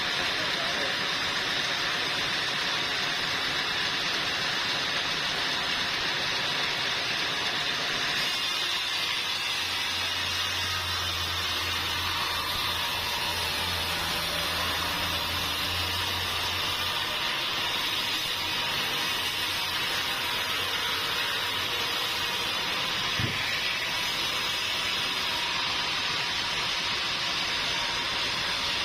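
Sawmill machinery running with a steady hissing noise. A low hum comes in for several seconds partway through, and there is a single knock near the end.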